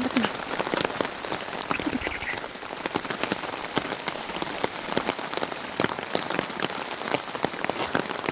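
Heavy rain falling steadily, with many close raindrops striking a nearby surface in dense, sharp pattering.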